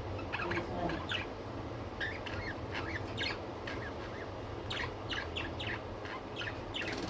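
Budgerigars chirping, many short, scattered chirps overlapping one another.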